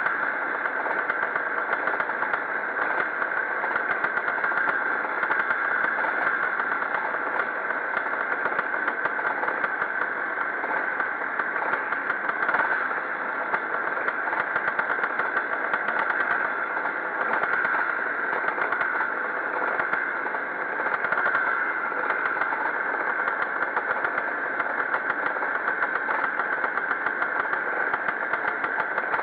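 Pre-65 motocross motorcycles racing, several engines running together at a fairly steady level with no single bike standing out.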